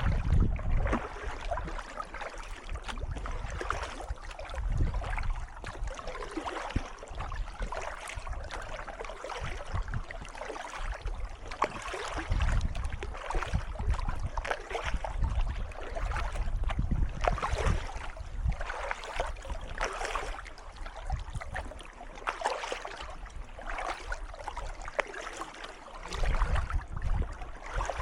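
Kayak paddle strokes splashing and dripping in calm water, repeating stroke after stroke, with bursts of low rumble at times.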